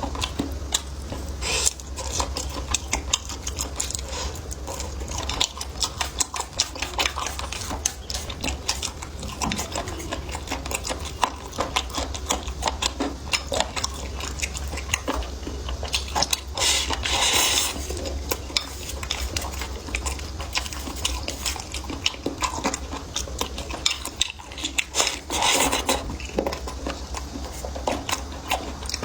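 Close-miked eating: utensils clicking against dishes among biting and chewing, as many quick clicks with a few louder bursts, over a steady low hum.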